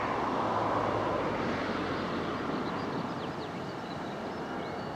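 Steady, distant rushing noise of jet aircraft engines, easing slightly in level over a few seconds.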